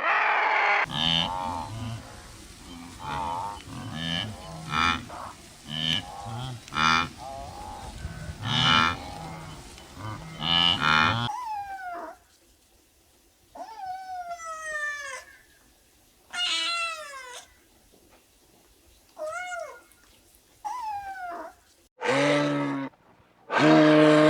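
Farm animal calls in three clips: first several animals calling over one another, then a kitten meowing about six times, each meow falling in pitch, then two low moos from a buffalo near the end.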